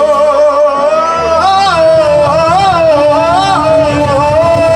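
Live blues band playing: a long held lead note that wavers and bends in pitch, over bass and drums.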